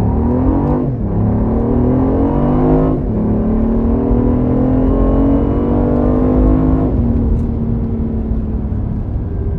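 BMW i8's turbocharged 1.5-litre three-cylinder petrol engine, ECU-tuned with raised boost, under hard acceleration, heard inside the cabin. Its pitch climbs and drops back with upshifts at about one, three and seven seconds in, then holds steady.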